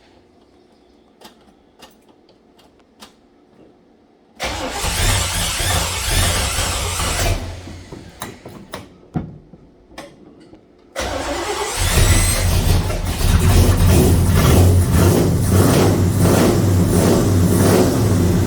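Freshly rebuilt 396 big-block V8 of a 1969 Chevelle SS being started for the first time, after a few faint clicks. A first try of about three seconds dies out; a few seconds later it cranks and fires, then runs loudly for about seven seconds.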